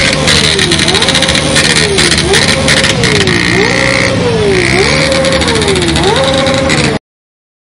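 Motorcycle engine revved over and over, about five times: each rev climbs quickly and sinks back slowly, over a loud hiss. The sound stops abruptly about seven seconds in.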